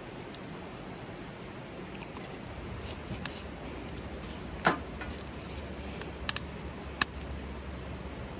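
Steady hiss with a few sharp clicks or snaps; the loudest comes about halfway through, followed later by a quick double snap and one more.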